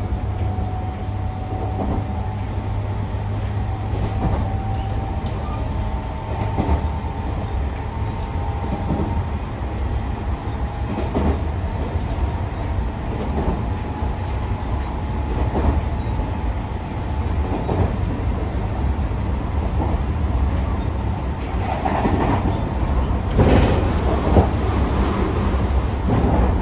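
Tobu 60000 series electric train running at speed, heard from inside the car: a steady low rumble with a steady whine from its Hitachi IGBT inverter-driven traction motors that fades out about two thirds of the way through. Rail-joint clacks come about every two seconds, with one sharper crack near the end.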